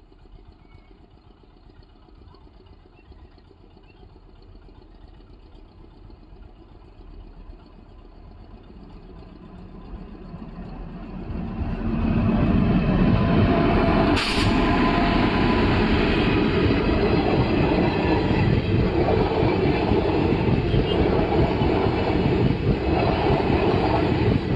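An electric-locomotive-hauled passenger train approaching and passing over a level crossing. It is faint at first and grows louder from about nine seconds in. From about twelve seconds in comes the loud, steady noise of the locomotive and coaches' wheels running on the rails close by, with one sharp click about fourteen seconds in.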